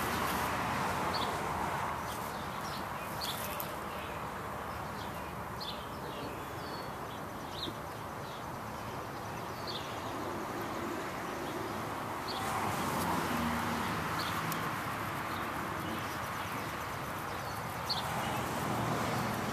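Birds chirping now and then over steady outdoor background noise.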